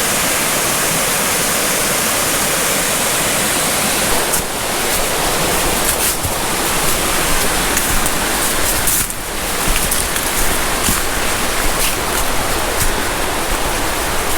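Waterfall water rushing in a loud, steady hiss. From about four seconds in the rush becomes uneven, with scattered short crackles on top.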